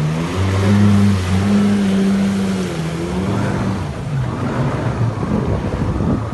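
Jet ski engine running under throttle, its pitch stepping up about half a second in and falling off after about four seconds, with wind and water rushing.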